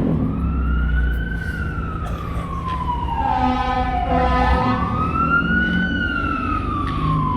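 Fire engine siren wailing in slow rising and falling sweeps, twice over, with a brief horn blast near the middle and the truck's engine rumbling underneath.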